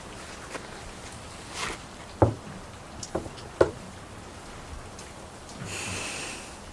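Steady rain falling, with two sharp knocks about two and three and a half seconds in and a few fainter clicks. A short hissing rustle comes near the end.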